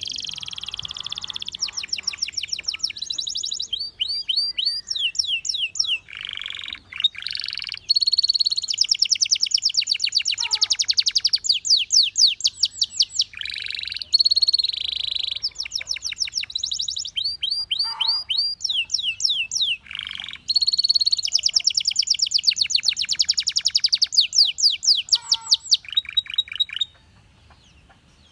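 Domestic canary singing: phrases of fast trills, each made of rapidly repeated sweeping notes, with short breaks between phrases. The song stops near the end.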